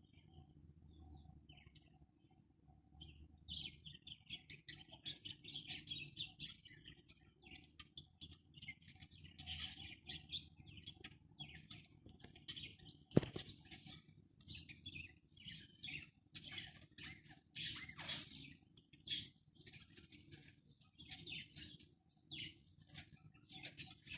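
Pet parrots chirping and twittering in many short, quick, high calls, with a single sharp click about 13 seconds in.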